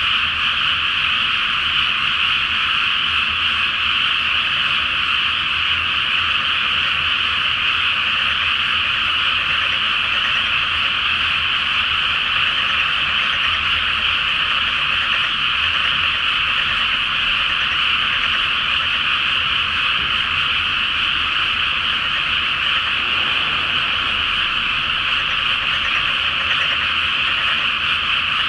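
A great chorus of many frogs calling at once from a flooded rice paddy, a dense, unbroken wall of calls that holds steady in pitch and loudness.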